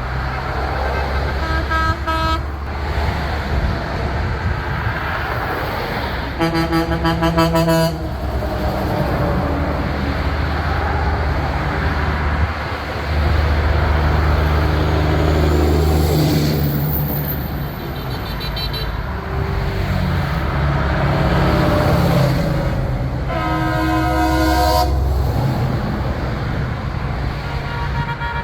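Big-rig trucks rumbling past with their air horns sounding: a short honk, then a louder long blast, then a faint one, and another long blast near the end. Diesel engine noise swells under it as each truck goes by.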